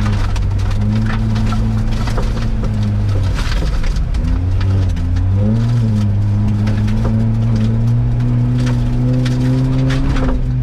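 Ford Fiesta ST engine heard from inside the cabin, running at a steady pitch, dipping and wavering about halfway through, then slowly climbing in revs. Under it the tyres run on wet gravel and slush, with a scatter of clicks from stones and spray hitting the car.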